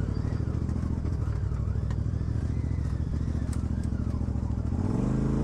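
Off-road vehicle engine running at low revs with a fast, uneven pulsing beat. It revs up near the end.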